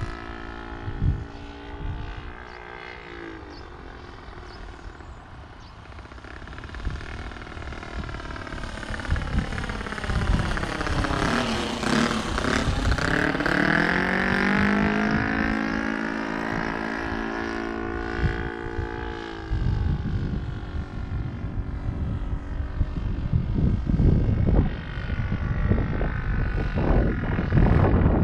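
Saito FG-21 four-stroke gas engine of an RC model Cub running in flight, its pitch sweeping as the plane passes by about twelve seconds in. The engine tone drops away suddenly about two-thirds of the way through, leaving wind buffeting the microphone.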